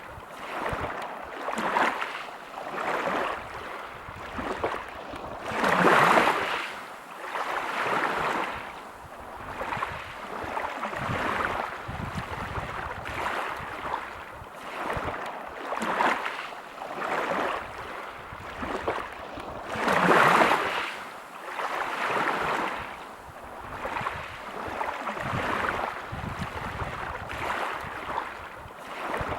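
Waves breaking and washing over a pebble beach, in repeated surges every couple of seconds, two of them stronger, about six seconds in and twenty seconds in.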